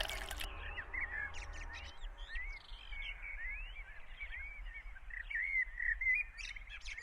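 Faint birdsong: many short chirps and arching whistled calls from several small birds, overlapping.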